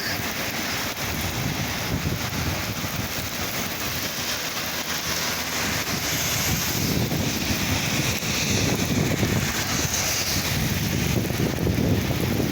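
Heavy rain falling steadily, with wind gusting on the microphone in uneven low rumbles that grow stronger in the second half.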